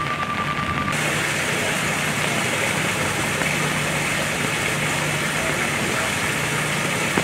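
Heavy rain falling, with a vehicle engine idling steadily underneath. A steady high tone stops about a second in.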